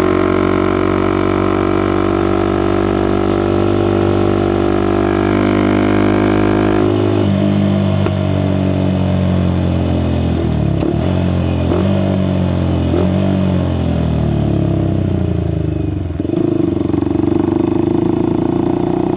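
Suzuki Gixxer SF 250's single-cylinder engine through a Yoshimura R11 exhaust, heard from the bike while riding. It pulls steadily, rising slightly in pitch for about seven seconds, then the revs fall in several steps as the bike slows, and it settles to a steady note near the end.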